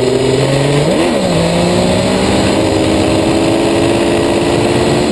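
Motorcycle engine running under way, its pitch jumping up and dropping back about a second in, then holding steady and slowly climbing, with wind noise over it.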